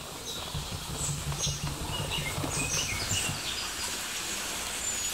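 Small birds giving scattered short, high chirps and tweets over a low hum that fades out about three seconds in.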